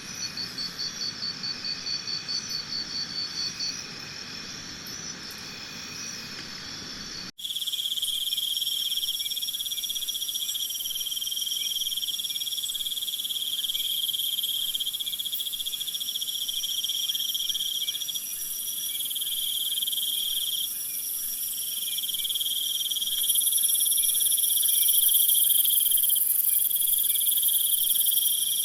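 Insects trilling: a quickly pulsing high trill at first, then, after a sudden break about seven seconds in, steady high-pitched trills in long overlapping stretches that grow louder near the end.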